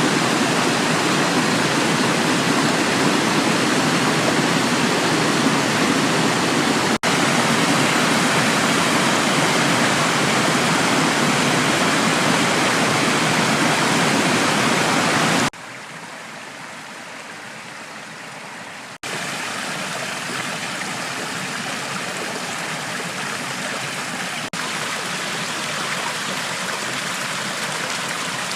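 Waterfall and its stream rushing, a steady dense wash of falling and flowing water. Partway through it drops abruptly much quieter and duller for about three seconds, then comes back slightly softer than before.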